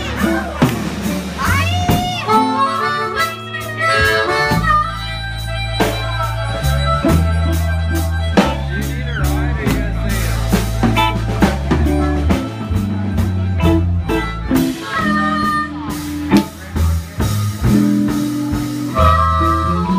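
Live blues band playing, a harmonica leading with bending notes over bass and drums.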